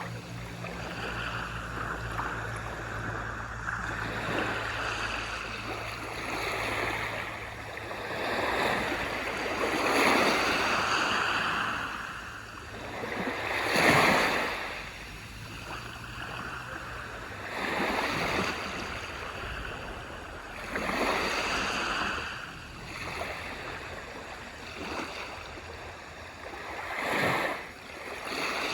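Ocean waves breaking and washing up on a shore, one swell after another every few seconds, the largest about halfway through.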